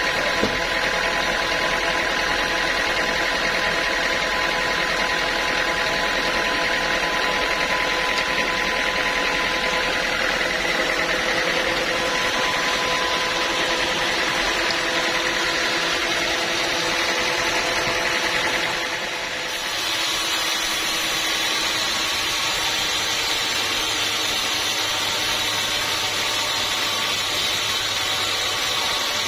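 A band sawmill running steadily, a dense machine noise with several steady whining tones. About nineteen seconds in it dips briefly, then carries on with a different set of tones.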